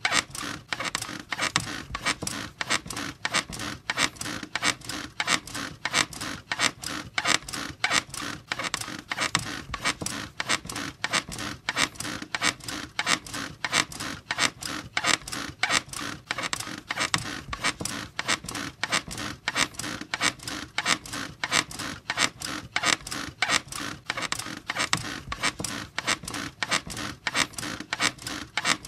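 Bed squeaking in a quick, even rhythm, one creak after another, as the bed is rocked back and forth.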